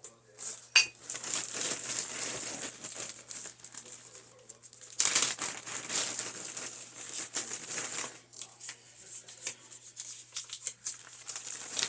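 Packing paper crinkling and rustling as it is unwrapped by hand from a rough stone, with scattered small clicks and knocks; it is loudest about five seconds in.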